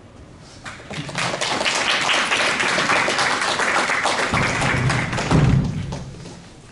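Audience applauding. The clapping swells about a second in, holds, and fades near the end, with a couple of low thumps just before it dies away.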